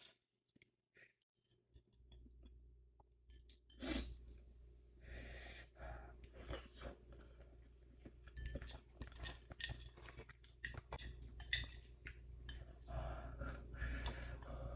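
Close-miked chewing of spicy instant noodles (Buldak ramen), full of short wet mouth clicks and a few louder noisy bursts of eating and breathing. A steady low hum comes in about two seconds in.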